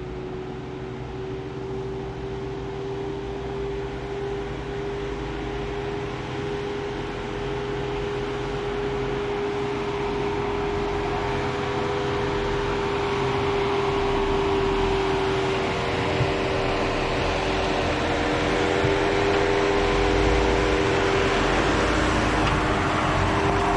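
Inside a Jeep's cabin on the move: the steady hum of the engine and ventilation fan, with a few constant tones, growing gradually louder.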